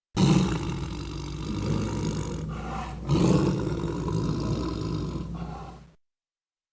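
Tiger growling: a deep, rough growl that starts abruptly, swells again about three seconds in, and fades out near the end.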